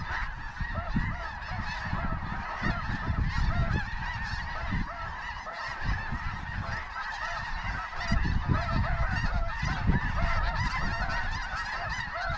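A large flock of snow geese calling constantly, many high, yelping honks overlapping into a continuous din. Gusts of low rumble from wind on the microphone run underneath.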